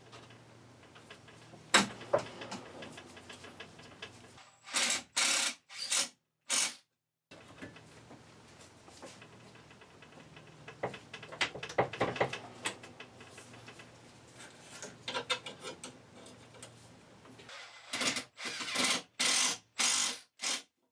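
Work on a power seat's frame and lumbar assembly with hand tools: scattered clicks and knocks of metal parts, with a few short, loud bursts of mechanical rattling twice, each broken by sudden silences.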